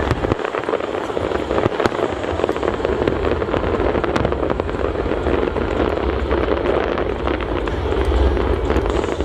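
Aerial fireworks display: a dense, continuous crackling of many small bursts over a steady low rumble.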